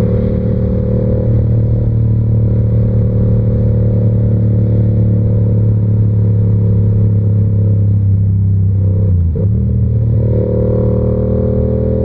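Yamaha R7's parallel-twin engine through an SC-Project exhaust, under way: the engine note sinks slowly as the bike eases off, breaks briefly about nine seconds in at a gear change, then climbs again as it accelerates.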